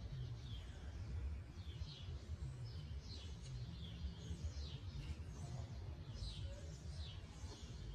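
Faint bird chirping: many short, high notes, each falling in pitch, repeated over and over, over a low background rumble.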